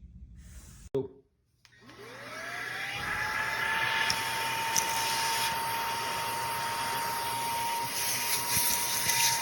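RUBOT 4-in-1 cordless handheld car vacuum switched on with a click about a second in; its motor spins up in a rising whine and then runs steadily at a high pitch with a rushing air noise.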